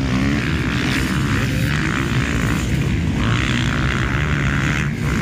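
Motocross dirt bike engines racing on the track, their revs rising and falling.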